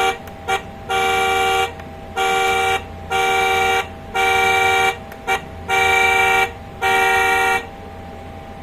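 Electronic horn of a kids' battery-powered ride-on toy car, honked over and over: about six beeps of under a second each, with a couple of quick taps between, stopping shortly before the end.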